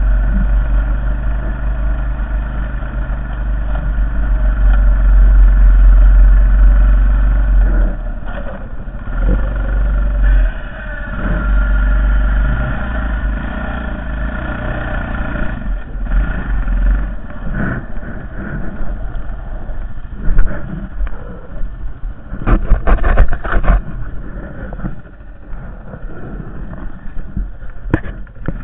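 Honda Foreman 450 ES ATV's single-cylinder engine running and revving under load while plowing snow, with a heavy low rumble for the first several seconds. A quick cluster of sharp knocks comes about 22 seconds in, and another knock comes near the end.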